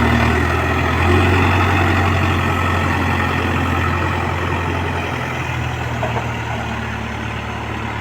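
Heavy diesel engine running steadily with a low, even note that shifts slightly about five seconds in.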